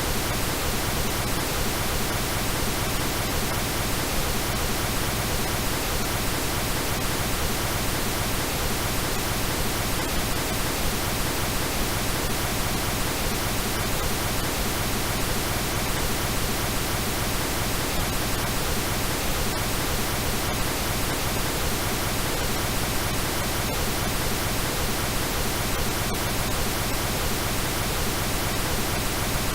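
Steady synthetic pink noise: an even, unbroken hiss spread across all pitches.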